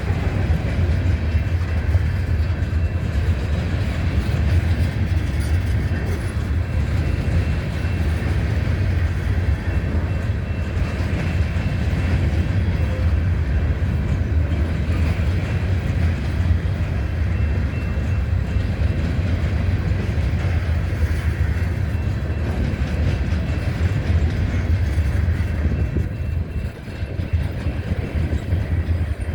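Freight train cars rolling past on the rails, a steady low rumble with wheel clatter, dipping briefly near the end.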